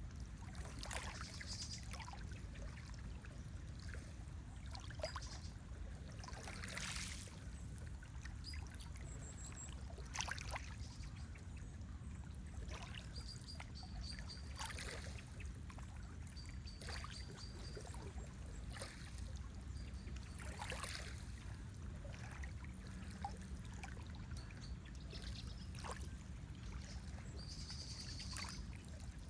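Lake water trickling and splashing in irregular small splashes over a steady low rush. A few short, high bird chirps come through now and then.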